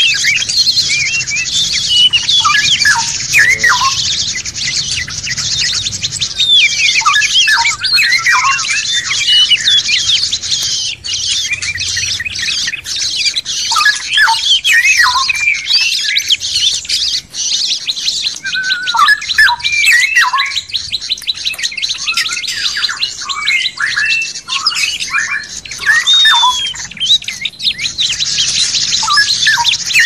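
Recorded songbirds singing: a busy run of short chirps and whistled notes sliding up and down, over a continuous high-pitched trilling chatter.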